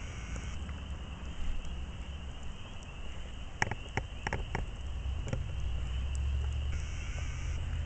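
Wood campfire burning with a low rumble and crackling, a quick cluster of sharp pops and snaps about halfway through.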